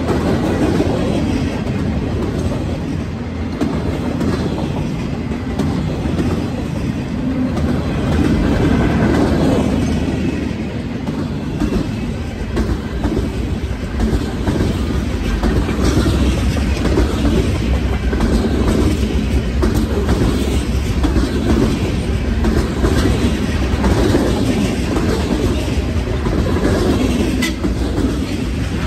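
Freight train cars rolling past: steel wheels clicking over rail joints amid a steady, loud clatter of the moving cars.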